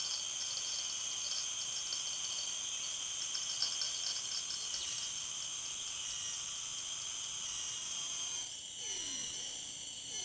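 Chorus of crickets and other insects trilling steadily in several high pitches. Near the end, two short sounds sweep downward in pitch.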